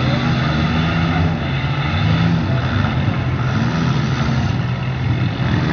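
Engines of several midsize demolition derby cars running and revving together, a loud steady drone whose pitch rises and falls as the drivers accelerate around the pit.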